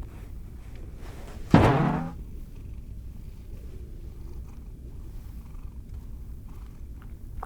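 Large cat purring steadily, with one heavy thud about one and a half seconds in as his body flops down onto the floor.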